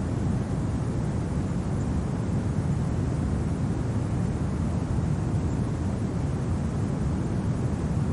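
Steady low wind rumbling without let-up, with no gusts, crackles or other distinct events.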